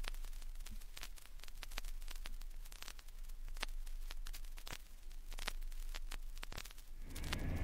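Vinyl record surface noise in the quiet groove between tracks: soft hiss with scattered clicks and pops over a low steady hum. The next track's sound starts near the end.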